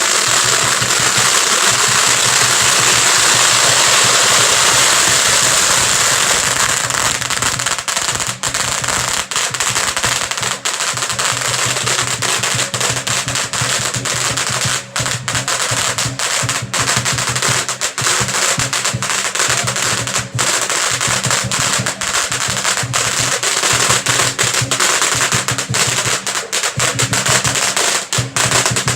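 A long string of firecrackers going off in a rapid, continuous crackle, densest and loudest in the first several seconds, then breaking into rapid separate pops. Lion-dance drumming plays underneath.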